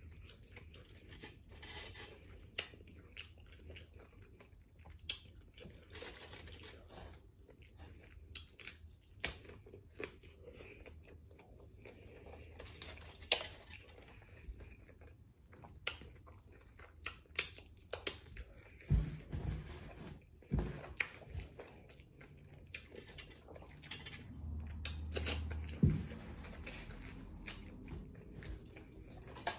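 Close-up eating sounds: a person chewing a soft chicken burrito, with many short wet mouth clicks and smacks. A few low thumps come in the second half.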